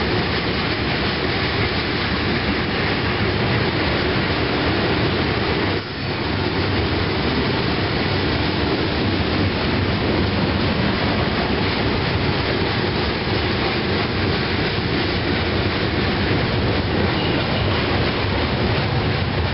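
Covered hopper cars of a CSX freight train rolling past: a steady, loud rumble and rattle of wheels on rail, dipping briefly about six seconds in.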